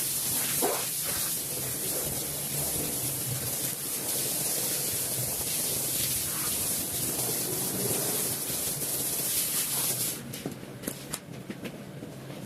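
Water spraying with a steady hiss, cutting off about ten seconds in, followed by a few light clicks.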